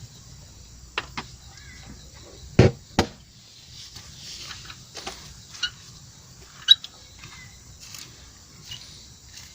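A handful of separate sharp knocks and clicks over a faint steady background, the loudest a pair of knocks about two and a half to three seconds in and a short ringing clink near seven seconds.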